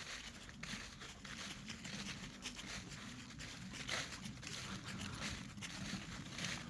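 Footsteps crunching through deep dry fallen leaves at a steady walking pace, about one step a second.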